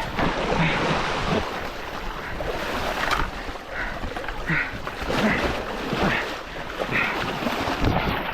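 Sea surf washing and splashing against shoreline rocks, with wind buffeting the microphone; the noise swells and falls every second or so.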